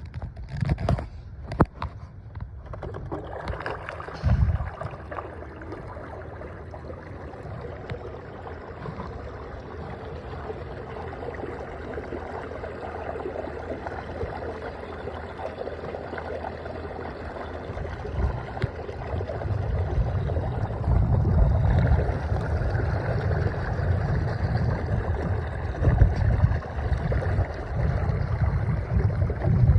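Canoe under way on a Minn Kota 12-volt electric trolling motor, with water gurgling and rushing steadily along the hull. A few knocks come near the start, and a gusty low rumble of wind on the microphone builds from about two-thirds of the way through.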